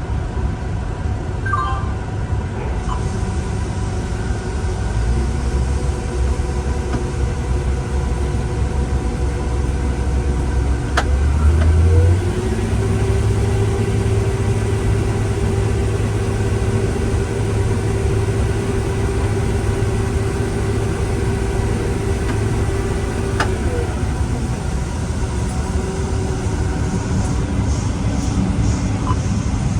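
Tractor engine running steadily under a constant low hum. About twelve seconds in, the engine note steps up with a clear whining tone, holds for about ten seconds, then drops back.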